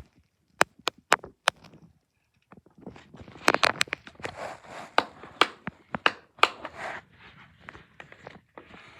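A few sharp clicks, then rustling and scraping handling noise with more clicks mixed in.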